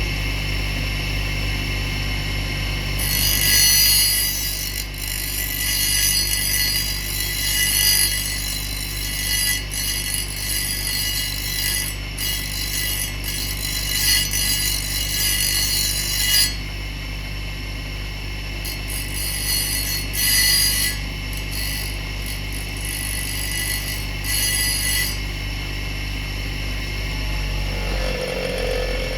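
Angle grinder running steadily, with two long spells of loud, bright hissing as the disc bites into a workpiece: one starting about three seconds in and lasting some thirteen seconds, the other for about six seconds just after the middle.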